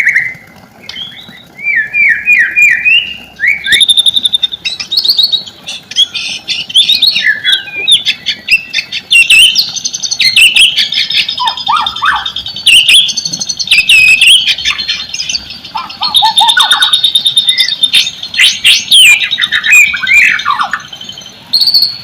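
White-rumped shama (murai batu) singing loudly and continuously: a varied run of quick whistled sweeps, trills and sharp clicking notes, with mimicked fill-in phrases.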